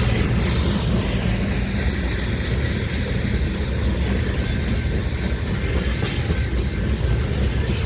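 A train rolling by, its railcars making a steady, continuous rumble on the track.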